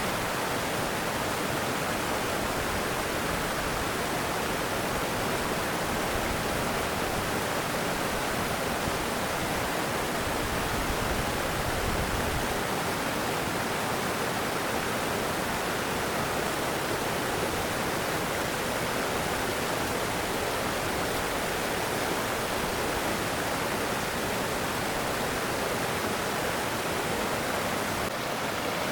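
Steady rush of flowing stream water, an even continuous hiss with no breaks.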